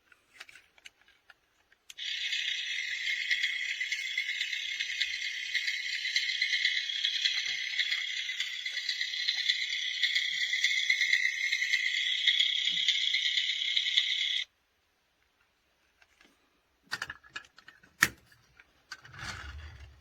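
Toy tractor giving a steady, high-pitched rattling noise for about twelve seconds that cuts off suddenly, followed by a few clicks and a knock near the end.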